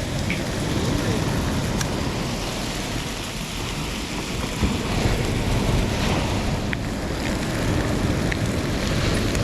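Bacon and eggs frying in plenty of hot oil in a pan: a steady sizzling hiss with a few small spatter pops.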